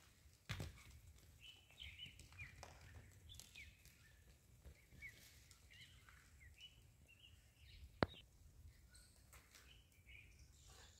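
Faint, scattered bird chirps over a low rumble, with one sharp click about eight seconds in.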